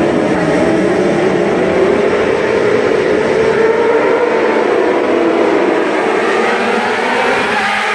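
Superbike engines running hard on the race track, a loud continuous high-revving engine note whose pitch drifts slowly up and down.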